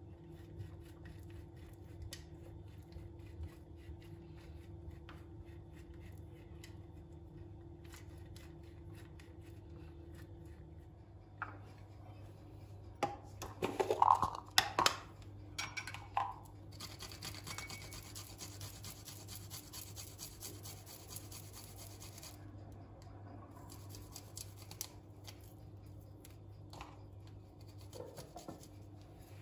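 Kitchen food-preparation handling sounds: soft scraping and rubbing with small clicks over a steady low hum, a few louder clatters about halfway through, then a steady hiss lasting several seconds.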